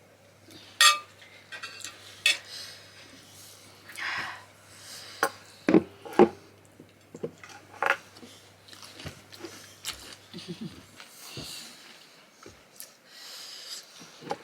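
Eating noises from a meal of millet dhido and curry: scattered clinks and knocks of a plate and utensils, with softer chewing sounds between them.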